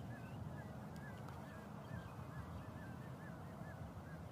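Birds calling faintly: a string of short, repeated chirps, about three or four a second, over a low steady background rumble.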